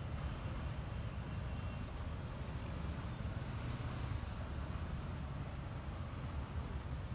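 Steady low rumble of a Honda ADV 150 scooter on the move, with wind buffeting the phone's microphone over the engine and road noise.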